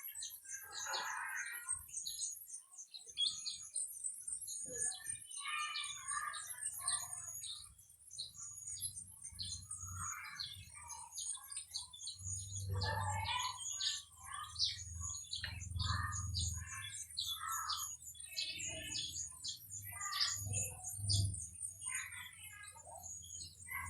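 Many songbirds chirping and calling, with short overlapping phrases over a steady, high, dense twittering. A low rumble comes and goes in the second half.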